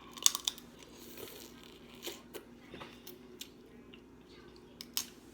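Snow crab shell being cracked and picked apart by hand: a few sharp cracks just after the start, then small scattered clicks and crackles, and one more sharp crack near the end.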